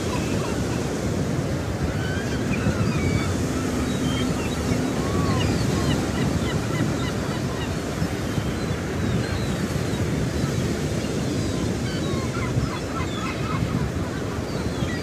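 Many budgerigars chirping and warbling together, a dense continuous chatter of short calls, over a steady low rushing noise.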